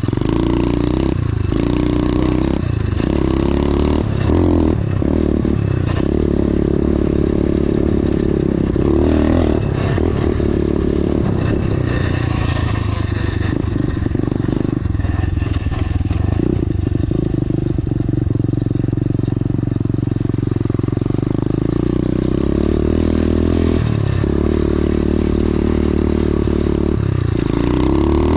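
Dirt bike engine running, its pitch rising and falling again and again as the throttle is worked.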